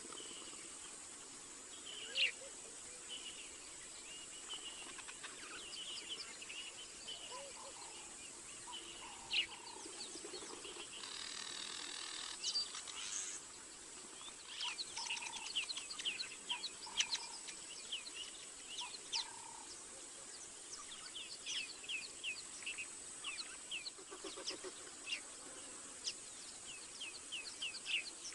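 Birds calling with many short, quick chirps, some in rapid runs, over a steady high hiss.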